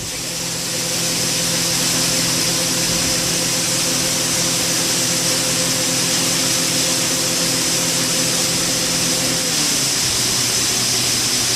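Grain auger running and filling a storage building with soybeans: a steady hiss of pouring beans over the hum of the drive. The hum stops about nine and a half seconds in, and the hiss of the beans goes on.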